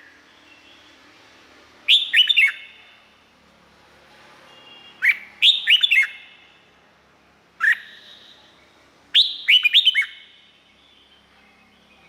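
Red-whiskered bulbul singing: four short phrases of quick, clear whistled notes that slur downward, spaced two to three seconds apart, the third phrase a single note.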